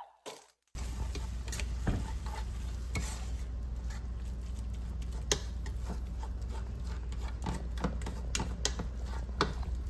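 Chicken frying in a pan with a steady sizzle, stirred with a utensil that clicks against the pan. The sound starts suddenly less than a second in.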